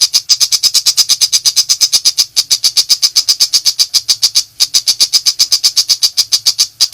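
Long-tailed shrike (pentet) giving its 'nembak' shooting call: a loud, rapid run of harsh repeated notes, about eight a second, with two brief breaks.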